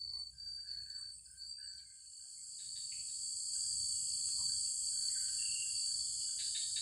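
Insects chirring in the forest: a steady high trill, joined about two seconds in by a higher, hissing buzz that swells louder and holds.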